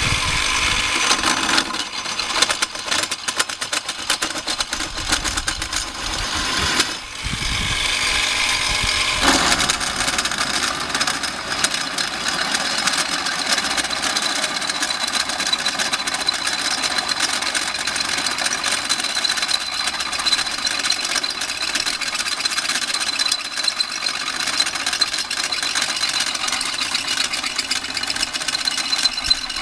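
Heavy hand drill with a three-phase induction motor and two-stage reduction gearbox, running under load while enlarging a hole from 19 to 25 mm: a steady motor and gear whine over a continuous crackling, scraping cut. The sound dips briefly about seven seconds in, then runs on evenly.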